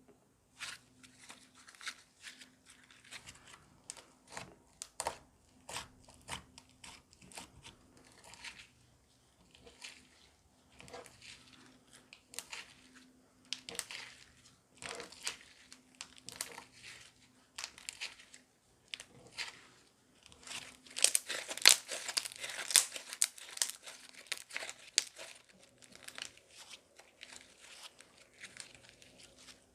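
Slime made with snow powder (sherbet or cloud slime) being squeezed and stretched by hand, giving irregular crunchy crackles and crinkles, busiest and loudest about two-thirds of the way through.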